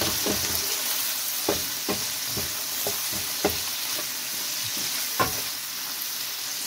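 Shrimp, onion and green chillies sizzling in oil in a frying pan, stirred with a wooden spatula that scrapes and knocks against the pan at irregular strokes over the steady hiss.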